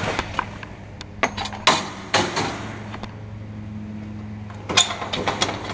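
Engine idling with a steady low hum, with several sharp knocks and clatters over it, the loudest a cluster near the end.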